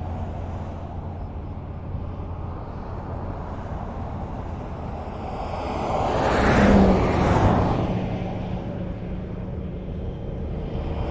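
Highway traffic: a steady rumble of tyres and engines, with one vehicle passing close by about two-thirds of the way through, its sound swelling and fading away. Another vehicle approaches near the end.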